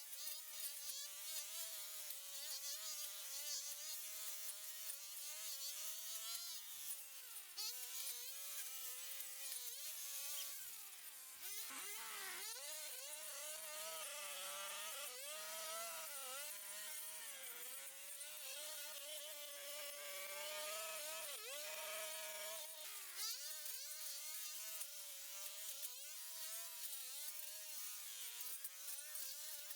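Small high-revving engine whining steadily, its pitch dipping and recovering every few seconds as if under changing load.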